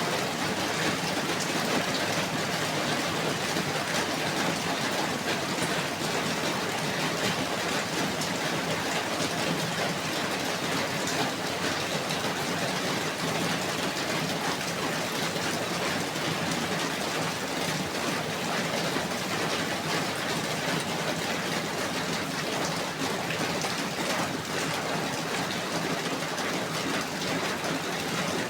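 Steady rain falling: an even, unbroken hiss flecked with many small drop ticks.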